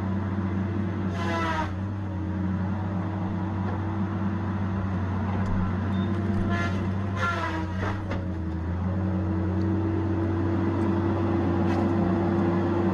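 Diesel engine of a Tigercat 870C feller buncher running steadily with a low, even hum. Two brief higher-pitched whines cut in, about a second in and again around seven seconds in.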